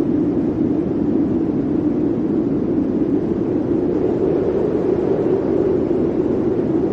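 Blizzard wind blowing steadily, a continuous low-pitched rush of noise with no gusts or breaks.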